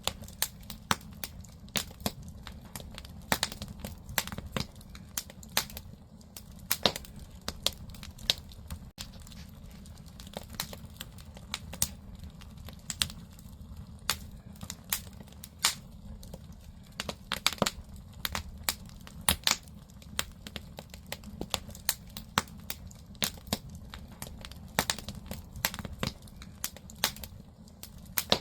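Firewood burning in a traditional Korean agungi firebox: irregular sharp crackles and pops, several a second, over a steady low rumble of the fire.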